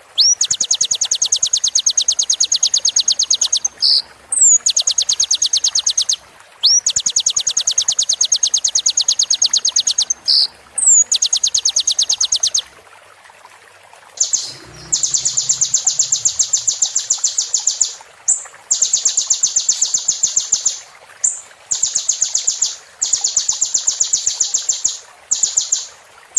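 Sunbird singing: very fast, even, high trills repeated phrase after phrase, each two to four seconds long with short gaps, several opening with a quick rising note.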